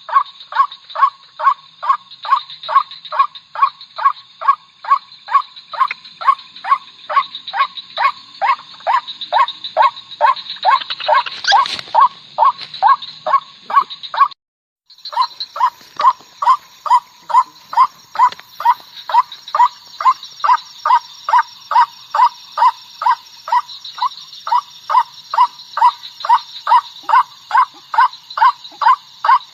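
White-breasted waterhen calling: a harsh note repeated about twice a second in a long, steady run, over a faint steady high whine. The run breaks off for about half a second near the middle, then resumes.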